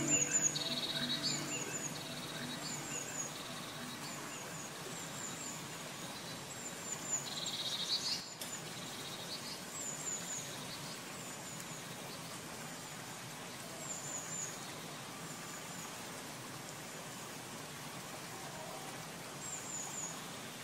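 Small birds chirping: short high chirps at irregular intervals, with a buzzy trill near the start and again about eight seconds in, over a steady faint hiss.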